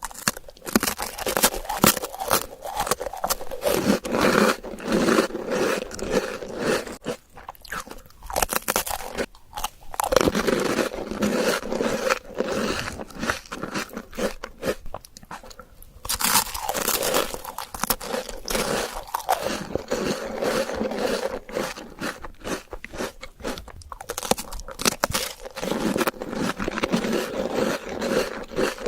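Close-miked crunching, biting and chewing of an Oreo chocolate dessert, in runs of crisp crunches with a few short pauses between mouthfuls.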